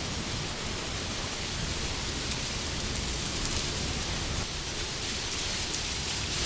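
Steady rushing wind, an even hiss over a low rumble, with no distinct gusts or drops.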